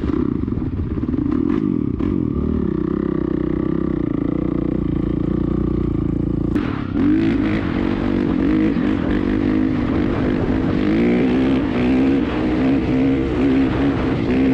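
Dirt bike engine running and being revved. About six and a half seconds in, the sound changes abruptly, and from then on the revs rise and fall repeatedly.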